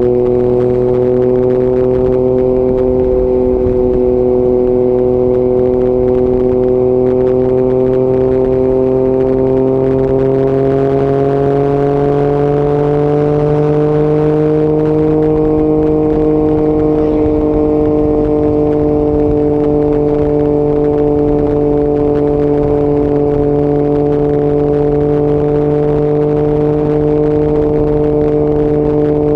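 Yamaha MT-09 inline-three engine running through an Akrapovic exhaust at a steady cruise. The engine note climbs gradually about halfway through, then holds at the higher pitch.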